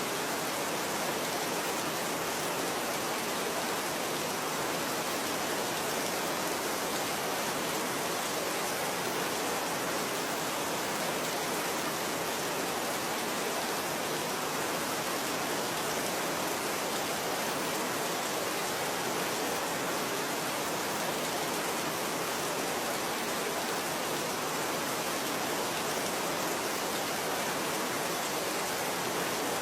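Steady rain, an even hiss that does not rise, fall or break.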